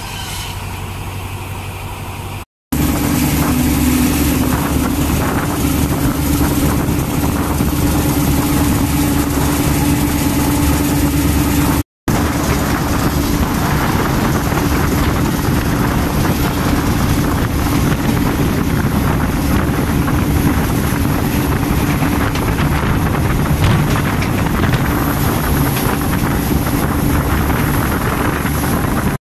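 Diesel passenger train running along the track, heard from an open door: a steady engine hum over continuous rolling and rushing noise. The sound cuts out for an instant twice, and gets louder after the first gap.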